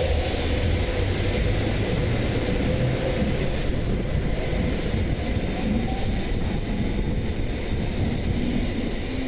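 A Shinkansen train running alongside the platform: a loud, steady rushing noise with faint whining tones under it.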